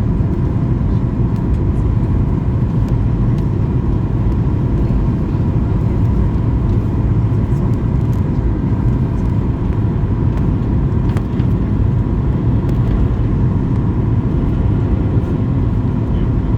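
Steady jet airliner cabin noise in flight: a loud, even low rumble of engines and airflow with a thin steady tone above it.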